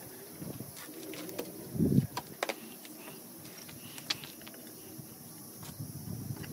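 Scattered light clicks and taps from hand work on natural stone cladding, with one short low sound about two seconds in.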